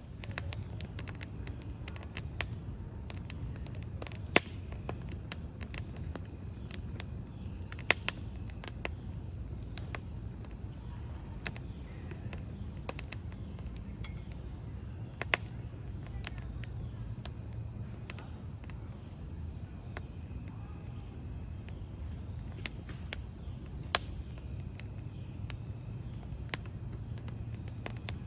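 Wood fire crackling, with sharp pops every few seconds over a low rumble, while crickets trill steadily in a continuous high chirring.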